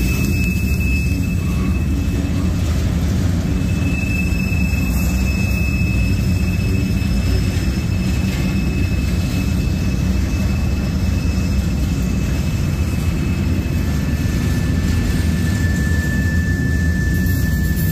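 Freight train cars (tank cars and covered hoppers) rolling past: a steady low rumble of wheels on rail with a thin, steady high-pitched wheel squeal over it. Near the end the squeal shifts to a lower pitch.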